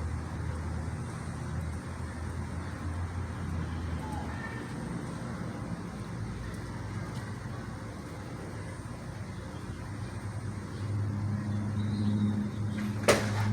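A steady low hum, with a sharp click near the end.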